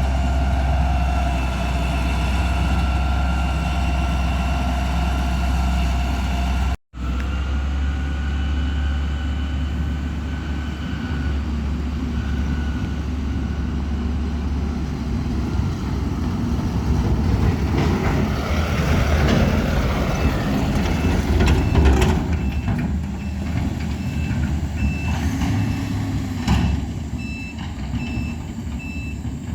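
Heavy diesel machinery running with a steady low engine hum, cut off by a brief dropout about seven seconds in. Near the end a reversing alarm starts beeping at a regular pace.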